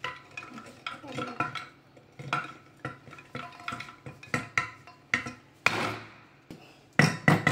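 Irregular sharp metal knocks and clinks, about two a second with the loudest near the end: a tool tapping on a Kärcher WD 3 vacuum cleaner's motor assembly to knock a stuck part loose.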